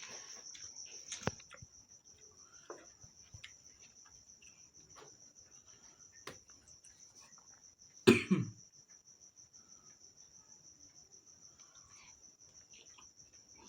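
Soft chewing and mouth clicks from eating, over a steady high-pitched insect trill, likely a cricket. One loud, short cough-like sound comes about eight seconds in.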